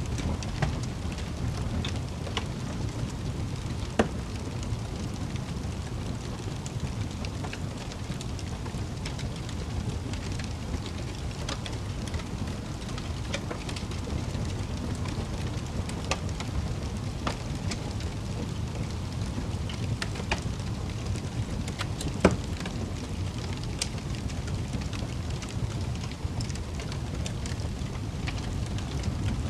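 Wood fire burning in a fireplace: a steady low rumble of flames with scattered sharp crackles and pops, the loudest pop about 22 seconds in.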